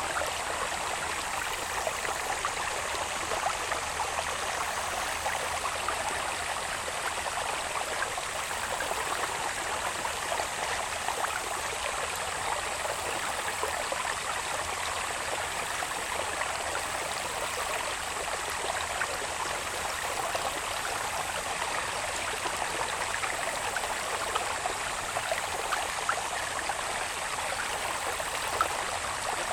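Water babbling steadily along a small irrigation channel, with many small splashes and gurgles in the flow. A thin, high, steady insect drone goes on unchanged above it.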